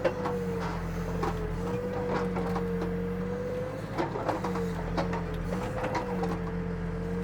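Backhoe's diesel engine running with a steady hydraulic whine that wavers slightly in pitch as the controls are worked, with a few light knocks from the machine.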